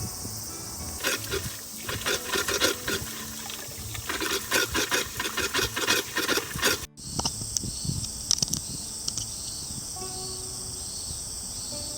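Insects chirring steadily in a high band, overlaid for the first seven seconds or so by a run of irregular scraping and crunching noises that stop abruptly.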